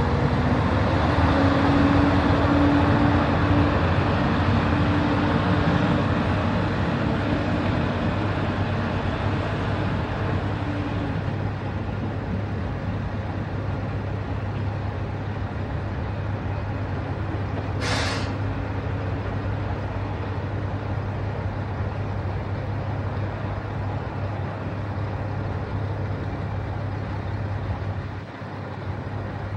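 Diesel railcar engine running at a station, louder in the first few seconds and then settling to a steady idle, with a short hiss of air from the brakes about two-thirds of the way through.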